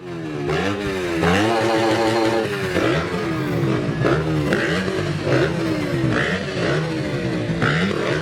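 Dirt bike engines revving hard, the pitch repeatedly climbing and then dropping back as the bikes shift up through the gears.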